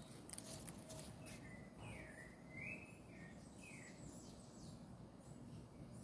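A bird calling faintly: a few whistled notes that glide up and down, starting about a second and a half in and lasting a couple of seconds.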